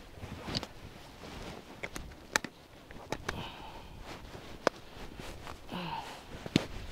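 A heavy backpack being swung on and strapped up: rustling of the pack and straps, a handful of sharp separate clicks of the buckles being fastened, and heavy breathing from the effort.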